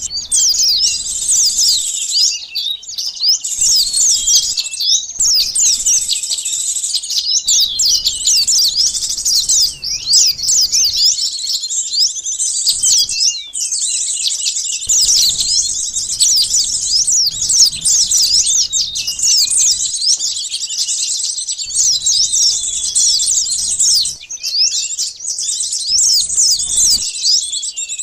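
Lure recording of many sunbirds chirping and twittering at once: a dense, fast, high-pitched chatter of overlapping calls, with a few short breaks.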